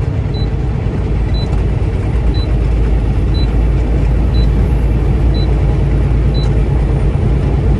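Steady low engine and road rumble inside a truck cab, with a short high beep repeating about once a second.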